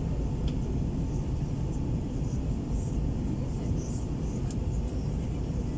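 Steady low rumble of engine and airflow noise inside the cabin of an Airbus A321 descending for landing.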